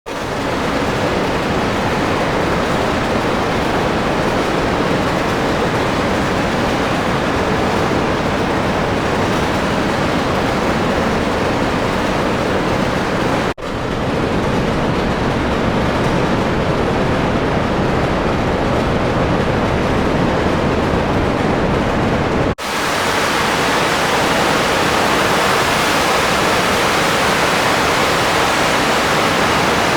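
Steady wind and engine noise of an Air Cam plane in flight, heard from its open cockpit. It breaks off for an instant twice, a little before halfway and again about three quarters in.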